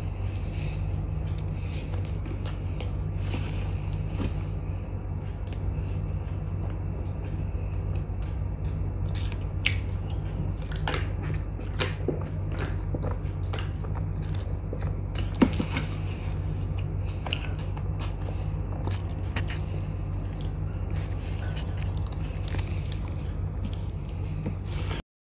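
Close-miked chewing and mouth sounds of a person eating soft street food, with scattered sharp clicks, the loudest about ten and fifteen seconds in, over a steady low hum. The sound cuts out just before the end.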